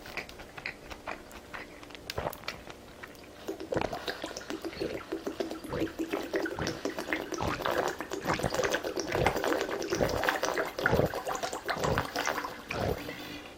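Close-miked wet eating sounds: smacking, squelching and chewing of food in the mouth, with many small clicks and soft low thumps, growing busier and louder about three and a half seconds in.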